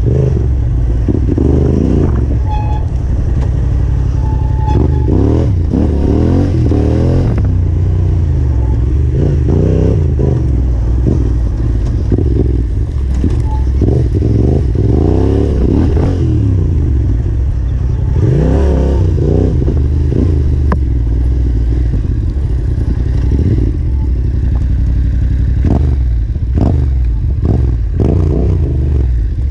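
Yamaha Ténéré 700's parallel-twin engine revving up and dropping back again and again, as on slow, technical single-track trail, with knocks and rattles from the bike over rough ground.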